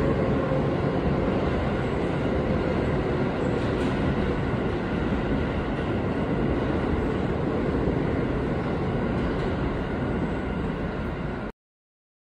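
Keio Line commuter train running along the tracks below, a steady rumble of wheels on rail and running gear. The sound cuts off abruptly near the end.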